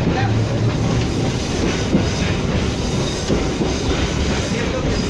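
A 1947 streetcar running along its track, heard from inside the car: a steady rumble from the wheels and running gear, with a few clacks as the wheels cross rail joints.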